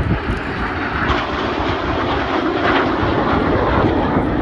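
Red Arrows BAE Hawk T1 jets flying past, a steady jet-engine rush that builds about a second in and holds.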